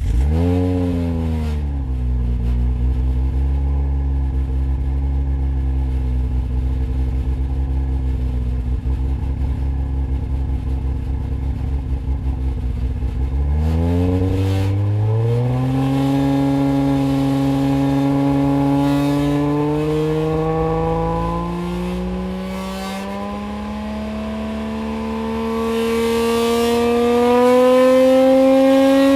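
Turbocharged Nissan RB25DET straight-six, stroked to about 2.65 litres and fitted with a top-mount equal-length manifold and a Garrett GTX3576R turbo, running through an aftermarket exhaust. It fires up right at the start, its revs flaring and then dropping back to a steady idle. About halfway through the revs rise and then keep creeping slowly higher to the end.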